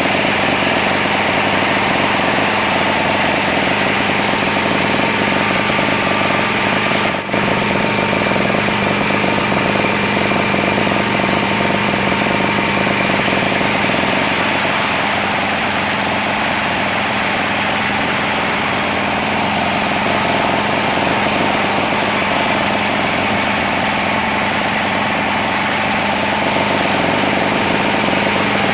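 Sawmill running steadily under power, a dense continuous machine noise with a steady hum, briefly dipping for a moment about seven seconds in.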